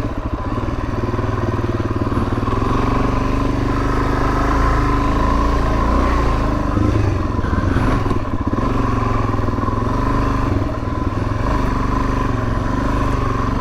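Suzuki DR-Z400S dual-sport motorcycle's single-cylinder four-stroke engine running steadily while riding a dirt trail, heard through the bike-mounted microphone.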